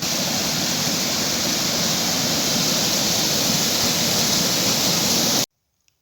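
Waterfall: a steady rush of falling water, loud and even, that cuts off suddenly near the end.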